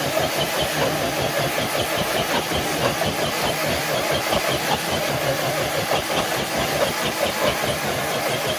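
A motor running steadily without let-up, with a fast, fluttering texture.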